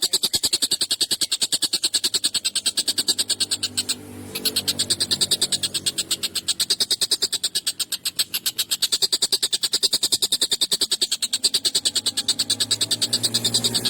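Tengkek buto (a kingfisher) calling in a rapid, harsh chatter of about ten notes a second, kept up without letting up except for a brief break about four seconds in.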